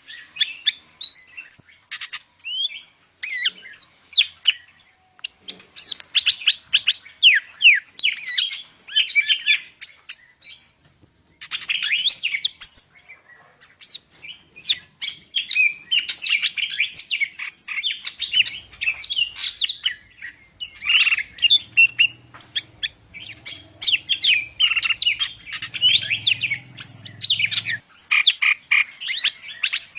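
Cucak ijo (Sumatran greater green leafbird) singing a fast, varied song full of isian, the borrowed phrases: tumbling chirps, whistles and trills with only short pauses.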